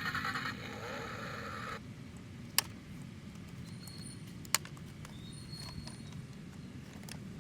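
Toy RC pickup's engine-sound module playing a buzzy simulated engine note through its small speaker, which cuts off abruptly about two seconds in. Two sharp clicks follow over a low rumble.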